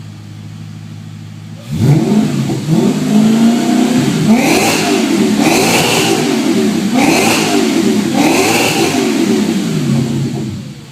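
Car engine idling, then revved again and again from about two seconds in, each rev rising and falling in pitch, until it drops away near the end.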